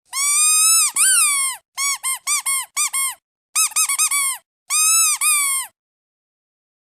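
Squeaky duck toy squeezed again and again, giving high-pitched squeaks that each rise and fall in pitch. It opens with two long squeaks, then a quick run of about five short squeaks, a tight cluster of short ones and a final long squeak.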